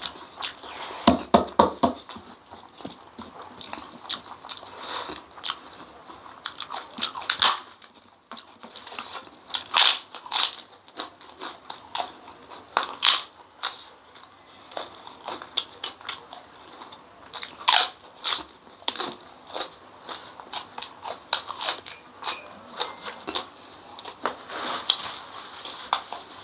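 Close-up eating sounds of a man eating chili-sauced chicken pieces with his hands: wet chewing, lip smacks and crunchy bites. A quick run of loud crunches comes about a second in.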